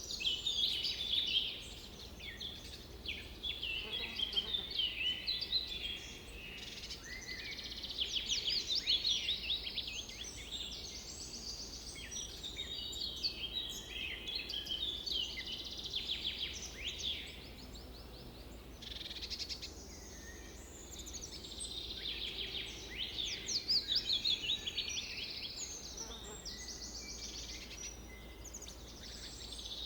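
Several birds singing and calling at once: overlapping high chirps and rapid repeated trills, one after another with no pause.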